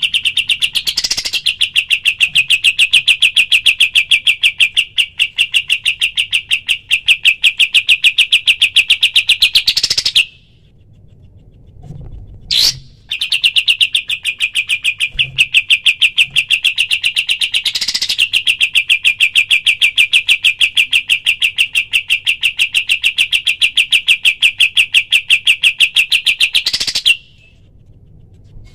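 Kapas tembak bird giving its rapid-fire "tembakan" call: a long, even string of quick, high notes. It comes as two long runs of about ten and thirteen seconds, with a short pause and a single brief note between them.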